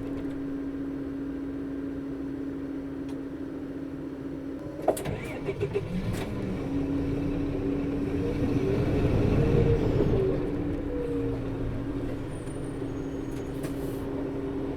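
Inside a Nissan Diesel Space Runner RA city bus (PKG-RA274KAN) on the move: a steady hum from the engine cooling fan's viscous coupling, which runs all the time on this bus and is high-pitched for the engine speed. About five seconds in come a few sharp clicks, then the engine noise swells and eases off near ten seconds.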